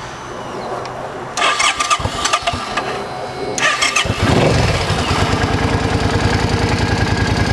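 2005 Suzuki Boulevard C50's fuel-injected V-twin being started. After a few clicks and rattles, it catches about four seconds in, revs briefly and settles into a steady, even idle through its quiet factory exhaust.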